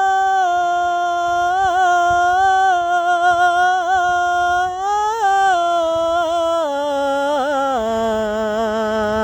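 A single unaccompanied voice singing a wordless melody: long held notes decorated with small turns, stepping down in pitch in the last few seconds.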